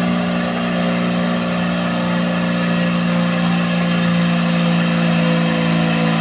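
Heavy truck's diesel engine labouring steadily under load up a steep climb, with a rough, heavy note.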